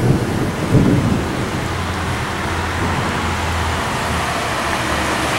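Rain pouring down with a steady hiss, and a low rumble of thunder in the first second.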